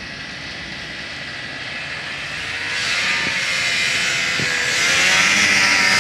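Snowmobile engine running and growing steadily louder, its pitch rising a little as it speeds up.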